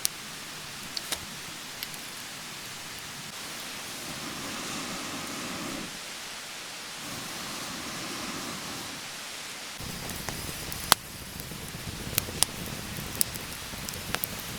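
Wood campfire burning: a steady hiss with scattered sharp pops and crackles, which come more often in the last few seconds as the low rushing sound grows fuller.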